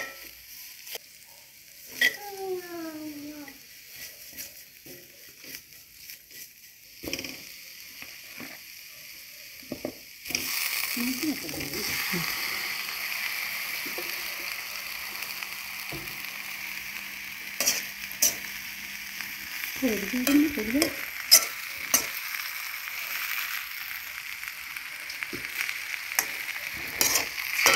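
A metal slotted spoon scraping and clicking against a metal pan as a coconut-and-egg tempering is stirred. About ten seconds in a steady sizzle starts and carries on under the clicks as cassava pieces are fried and stirred through.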